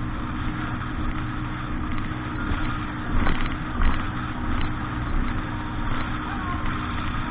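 An engine running at a steady speed, with a few louder bumps a little past the middle.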